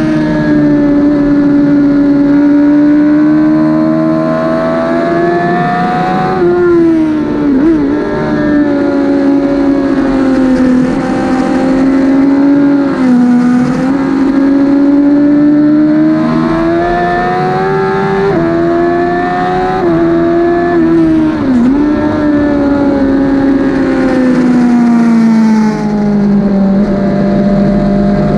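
Onboard sound of a 2008 Suzuki GSX-R1000's inline-four engine at racing pace on a track. The pitch climbs steadily under acceleration and drops sharply several times at gear changes and braking.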